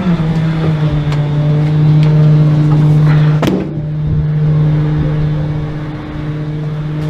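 Garbage truck engine running at a steady pitch, with a single sharp knock about three and a half seconds in.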